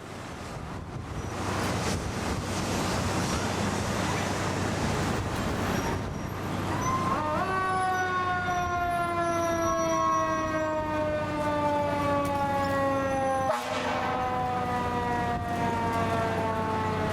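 A fire engine's motor and road noise grow louder for several seconds. About seven seconds in, a mechanical Federal Q-style siren spins up with a quick rising whine, then slowly winds down in pitch as it coasts.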